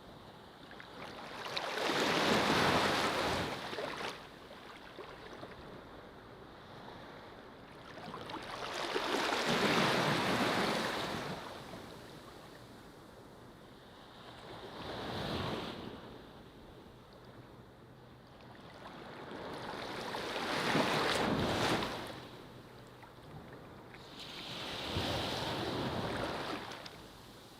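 Ocean waves breaking on a beach and washing up the sand. Five waves come in several seconds apart, each swelling up and falling away, with a softer steady wash in between.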